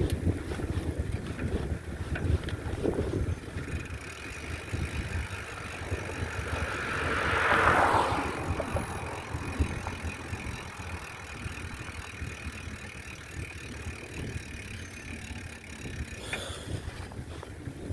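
Wind buffeting the microphone during a bicycle ride, a steady low rumble, with a hissing sound that swells and fades about halfway through and a short click near the end.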